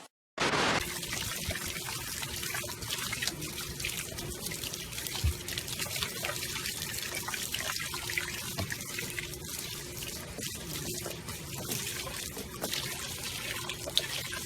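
Water running steadily, with small clicks and knocks over it.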